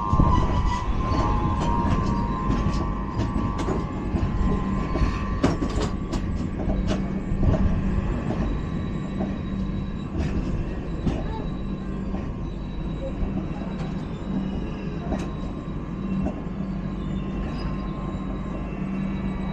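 An LHB passenger coach running at speed: a steady, heavy rumble of wheels on track, with scattered sharp clicks and knocks from rail joints and the coach body. A faint high ringing, likely from the wheels, fades in the first second or two.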